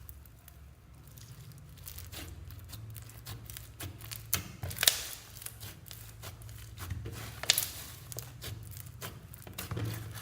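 Glitter slime being worked by hand, with a run of small sticky clicks and crackles and two louder snaps, about five and seven and a half seconds in.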